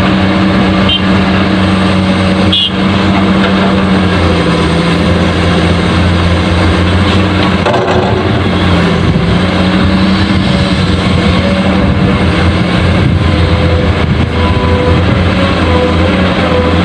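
Truck engine running steadily with a deep, even hum, starting abruptly; a brief click about two and a half seconds in.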